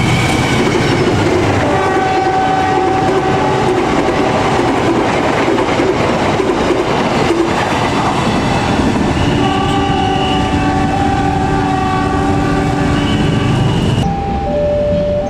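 A train passing at speed with a steady rolling rumble and wheel clatter on the rails, while its locomotive sounds long multi-note horn blasts, one about two seconds in and another from about nine to thirteen seconds. Near the end the sound changes abruptly to a two-tone level-crossing warning alarm alternating high and low.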